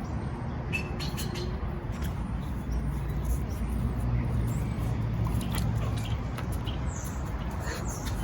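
A few faint bird chirps over a steady low outdoor rumble.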